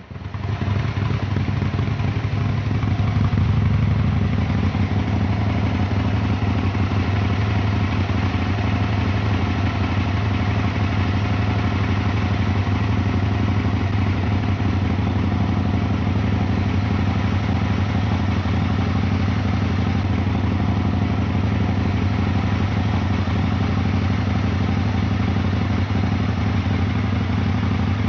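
Aprilia RSV 1000 Tuono R's V-twin engine idling steadily through an Akrapovic exhaust, just after being started, a little louder around three to four seconds in.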